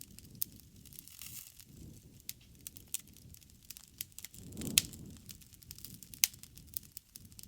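Wood bonfire burning, with scattered sharp crackles and pops over a low, steady rumble of flame. The loudest pop comes just under five seconds in, with a brief swell of the low rumble around it.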